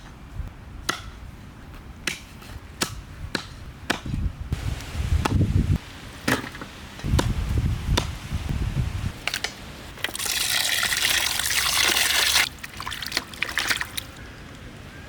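A knife chopping bone-in chicken on a board: sharp strikes about every half second for the first few seconds, then irregular handling noises. About ten seconds in, water runs for a couple of seconds.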